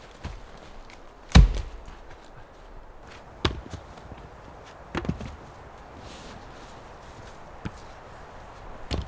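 Wood being chopped: about five sharp, unevenly spaced blows with a dull thud under each, the heaviest about a second and a half in.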